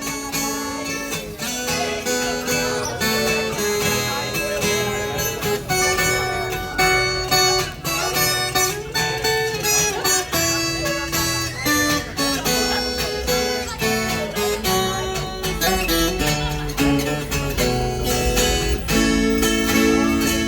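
Viola caipira, the Brazilian ten-string guitar, playing an instrumental interlude between sung verses of a gospel song: a melody of plucked notes over a steady low accompaniment.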